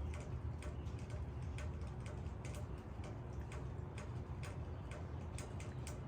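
Raindrops hitting leaves: irregular sharp ticks of single drops, several a second, over a steady low rumble.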